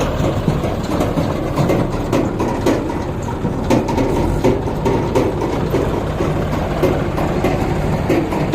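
Heavy diesel engine running steadily, with scattered metallic clanks and knocks throughout.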